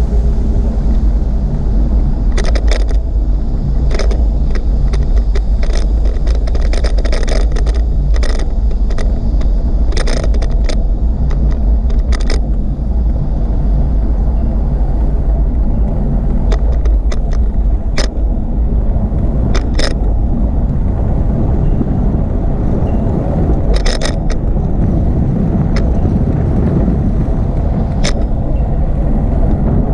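Wind rumbling on the microphone of a camera riding on a moving bicycle, with scattered sharp clicks and rattles.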